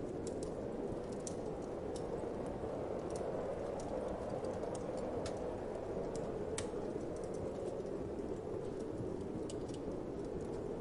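Wood fire crackling with scattered sharp pops over a steady low whoosh of wind.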